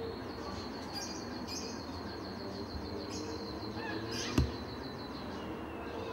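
Birds chirping in quick repeated trills over a steady background hum, with one sharp knock about four seconds in.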